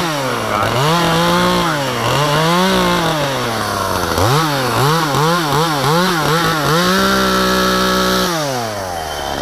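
Efco MTT 3600 top-handle two-stroke chainsaw revving up and down, first in a few slow swells, then in several quick blips of the throttle. It is held at high revs for over a second before dropping back to idle near the end.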